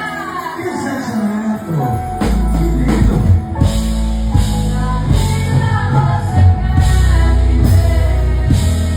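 Live band music: a singer's voice over the band, with drums and bass coming in heavily about two seconds in.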